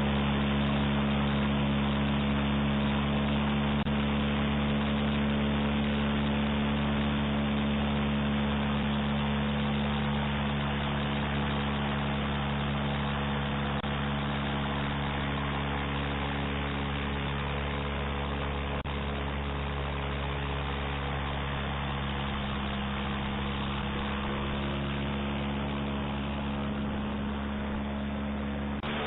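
Homemade airboat's engine and propeller running at a steady speed, the level easing slightly about ten seconds in.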